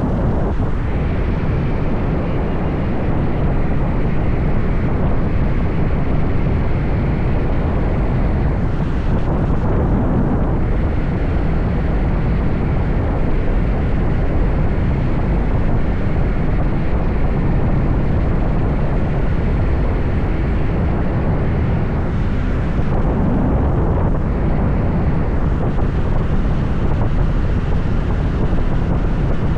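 Steady rush of wind on the microphone from a moving motorbike, with the bike running and the road underneath.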